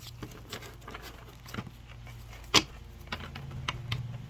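Tarot cards being handled: a few faint clicks and one sharp tap about two and a half seconds in, over a steady low hum.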